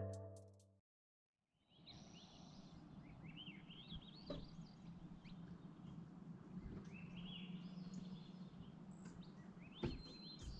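Faint wild birds chirping and twittering in short, wavering calls over a quiet outdoor background, with a soft knock or two.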